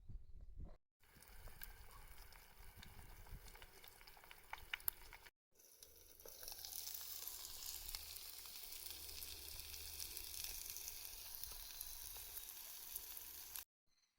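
Food sizzling and spitting in a hot pan, with sharp pops of spattering oil in the first part, then a louder, steady sizzle. The sound is cut off abruptly twice.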